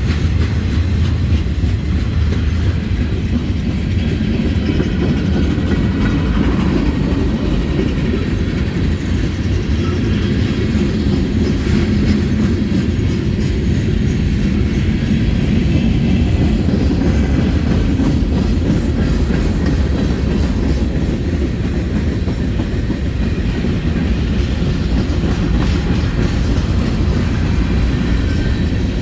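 Freight cars of a Norfolk Southern manifest train rolling past in a steady, loud rumble, with the wheels clacking over the rail joints.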